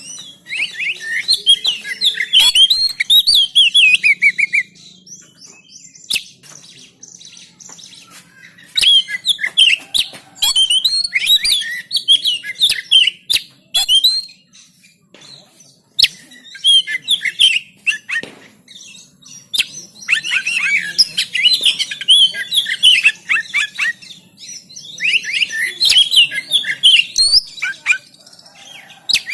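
Oriental magpie-robin (kacer) singing in loud bouts of rapid, varied chirps and trills a few seconds long, separated by short pauses, with a few sharp clicks in between.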